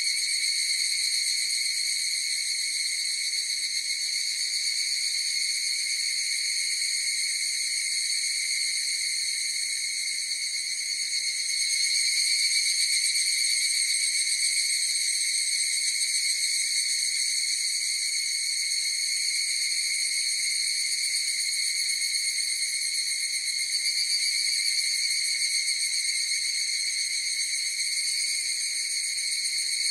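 Chorus of higurashi (evening cicadas, Tanna japonensis) calling without a break, a high ringing drone that grows a little louder about twelve seconds in.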